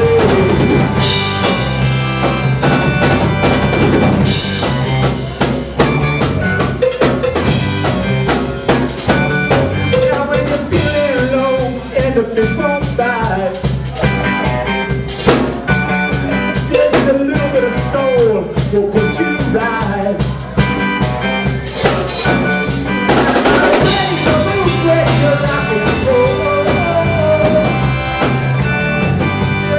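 Live rock band playing an instrumental passage without vocals: drums driving a steady beat with snare and bass drum, under a wavering melodic lead line.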